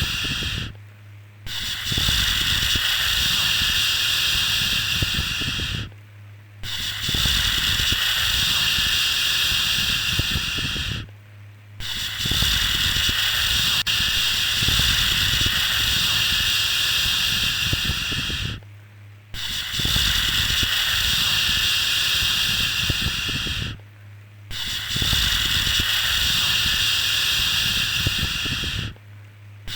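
A shushing 'shhh' sound for lulling a baby, each hiss lasting about four to seven seconds and broken by a short pause of under a second, repeating over and over.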